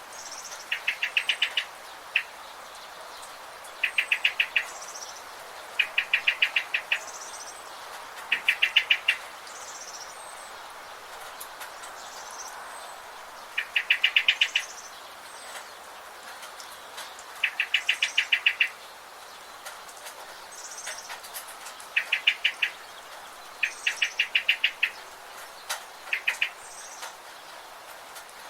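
Birds singing. One bird repeats a short, fast rattling trill of about a dozen quick notes, roughly every two to four seconds, while other birds give softer, higher chirps in between.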